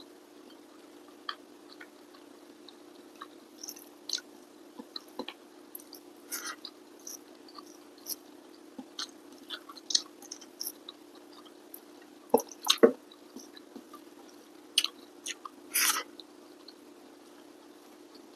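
A person chewing food with wet mouth sounds: scattered smacks and clicks, a few louder ones about two-thirds of the way through, over a steady low hum.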